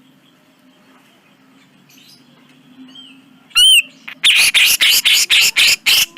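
Cucak jenggot (grey-cheeked bulbul) calling: after a quiet pause, one loud wavering call, then a fast run of harsh, rasping notes at about five a second. A faint low hum lies beneath.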